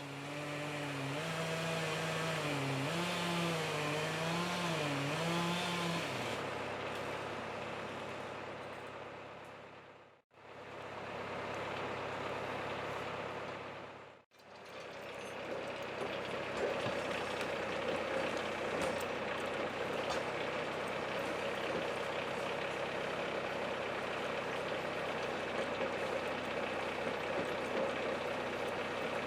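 Tractor engine running, its pitch rising and falling for the first few seconds as it works, then running on more steadily. The sound cuts out briefly twice.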